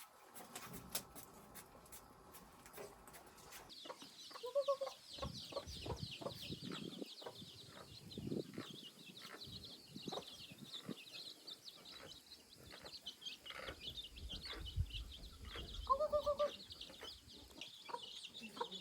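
Chicks peeping in a steady, dense chorus of high chirps from about four seconds in, with two short lower clucks and scattered knocks and taps.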